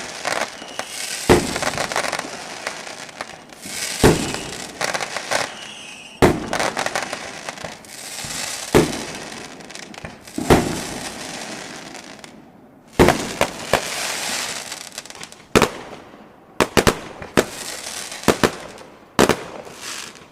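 Fireworks going off: a sharp bang every two or three seconds, each followed by a fizzing crackle, with a quicker run of bangs in the last few seconds.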